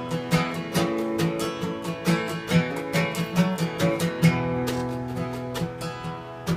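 Acoustic guitar strummed in a steady rhythm, an instrumental passage of a slow folk-country song with no singing.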